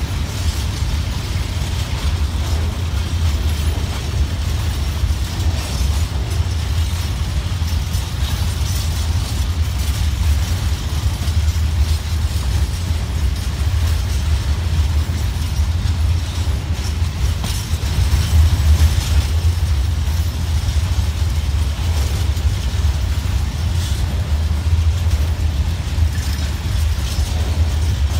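Freight wagons rolling past close by: a steady low rumble of steel wheels on the rails with faint clicking and rattling throughout.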